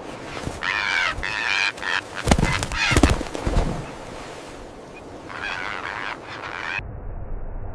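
Goose-like honking bird calls in two spells, with two heavy thumps in between.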